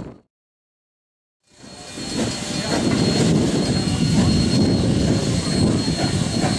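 Sound drops out for about a second, then a steady rumbling noise fades in and holds: a train running.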